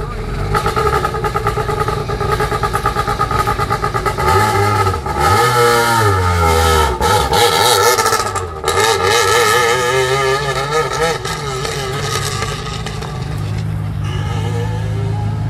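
Peugeot 207 rally car's engine running at idle, then revved up and down several times from about four seconds in as the car moves off, settling into a steadier drone near the end.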